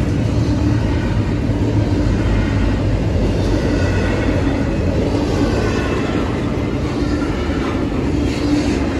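Double-stack intermodal freight train rolling past: a steady rumble of the well cars' wheels on the rails.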